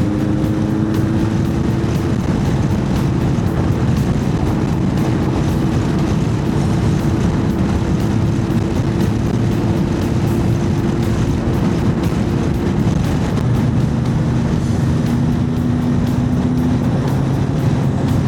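Honda CB1100's air-cooled inline-four engine running steadily at cruising speed under heavy wind rush. The engine note drops a little about two-thirds of the way through.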